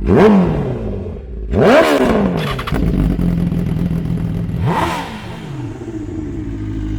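Motorcycle engine idling and blipped three times, each rev rising sharply and falling straight back to idle, with a brief burst of crackles from the exhaust after the second blip.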